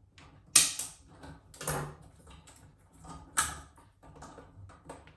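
Handling noises as scissors are used on a cable tie and packaging: three sharp snaps or clicks with lighter rattling and rustling between.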